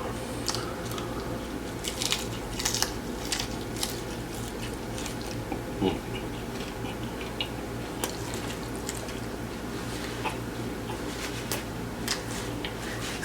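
A person biting and chewing a hard-shell taco close to the microphone: scattered crunches and wet mouth sounds, over a steady low hum.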